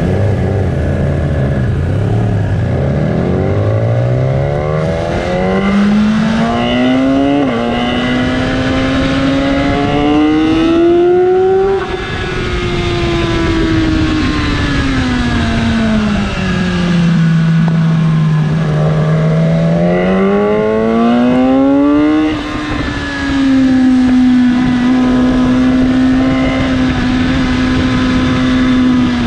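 Sport bike's inline-four engine under hard acceleration on track, heard onboard with heavy wind noise. Its pitch climbs, dips briefly at a gear change about seven seconds in and climbs again, then falls steadily from about twelve seconds to a low steady note, rises again around twenty seconds and holds fairly steady near the end.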